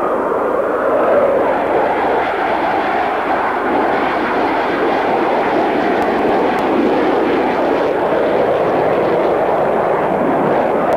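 Jet aircraft in flight, a steady dense rush of engine noise that swells slightly now and then without dying away.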